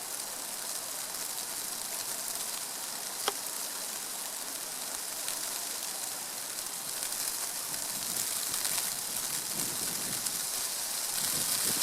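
Steady outdoor hiss of wet precipitation falling on surfaces, with one short click about three seconds in. A low rumble of wind builds near the end.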